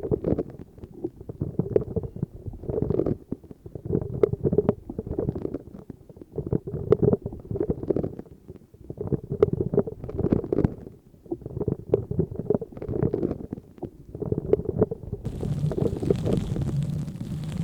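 Close-miked ASMR tapping and rubbing on an object: soft, irregular taps and scratches with occasional sharper clicks. Near the end it changes to a steadier, hissier rubbing.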